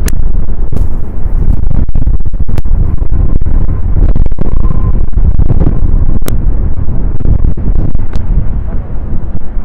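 Strong gusting wind buffeting the microphone: a loud, constant low rumble with scattered sharp crackles.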